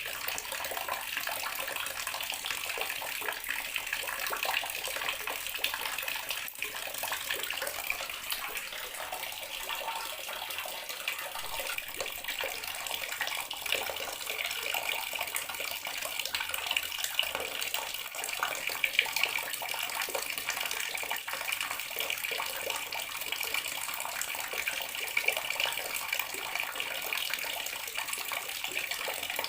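Bathroom water tap running steadily, a continuous splashing stream of water.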